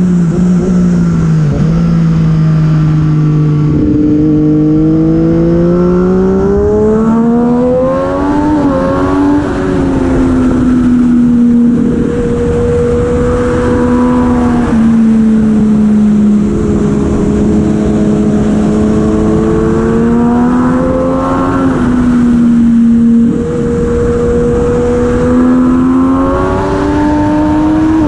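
Superbike racing motorcycle engine at race pace, its pitch climbing under acceleration, stepping at gear changes and dropping again as it slows, over and over.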